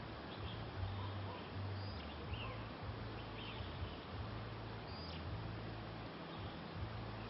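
Oriental magpie-robins giving short, faint chirps several times in the first few seconds, over the steady rush of a shallow stream and a low rumble that comes and goes.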